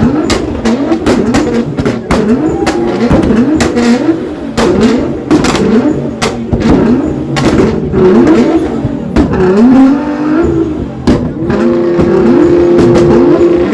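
Car engines revved hard in quick repeated blips, each climbing in pitch and dropping off, with sharp cracks scattered among them. Near the end one engine holds a steady high rev for about two seconds.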